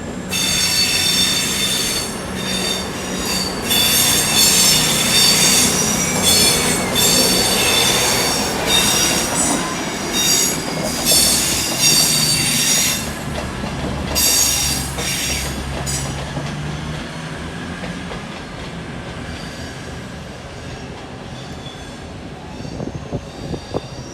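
Train wheels squealing against the rails as a train moves slowly, with high-pitched squeals starting and stopping repeatedly over a low running rumble. The squealing stops about two-thirds of the way through, leaving a fading rumble.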